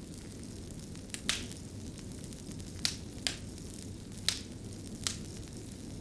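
Fire crackling: a steady low rumble with about half a dozen sharp pops at irregular intervals.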